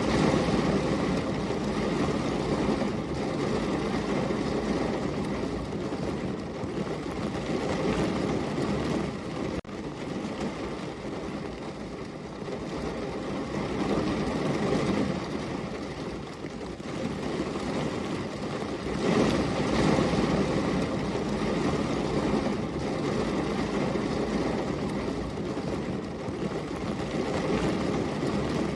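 Heavy rain falling steadily, a dense hiss that swells and eases every few seconds.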